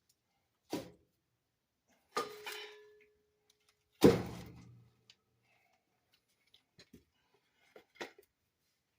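Clunks and knocks of wood and metal in a fireplace grate: three knocks, the second with a brief metallic ring and the third, about four seconds in, the loudest, then a few light taps and one more knock near the end.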